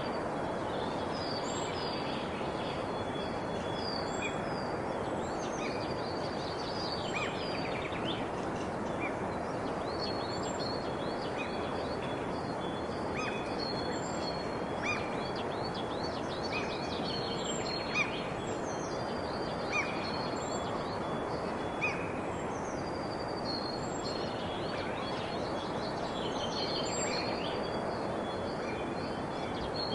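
Several birds chirping and singing, with short calls repeating every second or two, over a steady background hiss.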